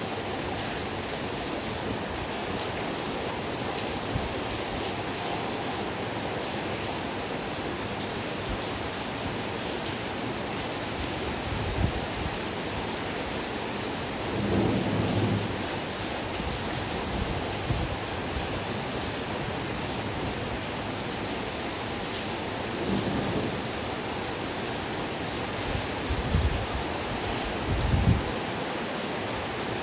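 Heavy rain falling steadily as an even hiss, broken several times by brief low rumbles or thumps, the longest about halfway through.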